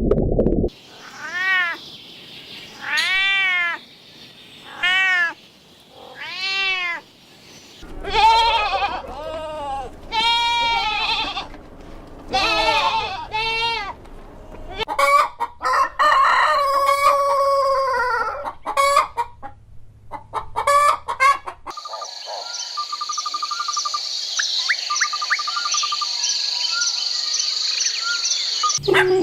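A series of farm-animal calls: short pitched calls that rise and fall, one after another, then a longer drawn-out call. From about two-thirds of the way in, a steady high-pitched buzzing trill takes over.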